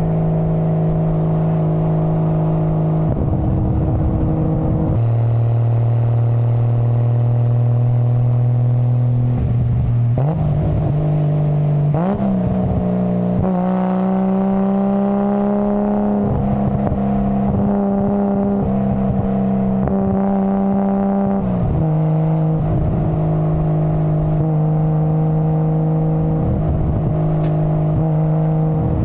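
Nissan Skyline GT-R R33's RB26 twin-turbo straight-six engine and exhaust running under way. The engine holds steady revs for a few seconds at a time, with the pitch stepping down or up several times and rising smoothly once about twelve seconds in.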